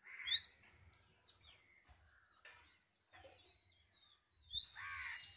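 Birds calling: a loud rising call just after the start and another near the end, with fainter chirps between.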